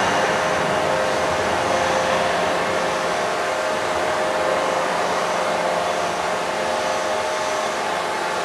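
Steady hiss and hum of a shake-table hydraulic system, with two faint steady tones. The low rumble of the table motion has largely died away.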